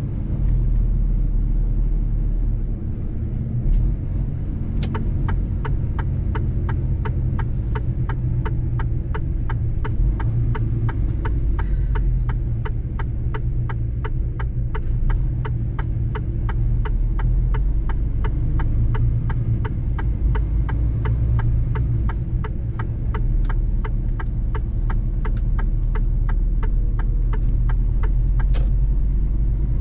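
Mercedes-Benz truck driving on the road, a steady low rumble of engine and tyres. From about five seconds in until near the end a regular ticking runs over it, about two ticks a second.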